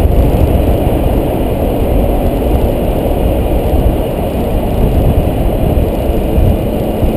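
Steady low road and wind rumble from a 2010 Toyota Tacoma on the move; no distinct squeal stands out above it.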